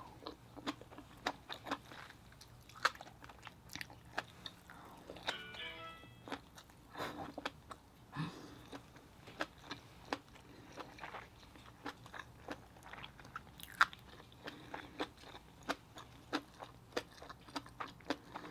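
Close-up mouth sounds of chewing a mouthful of seafood dipped in fish egg sauce: wet, irregular smacks and clicks. A short hummed 'mm' about five seconds in.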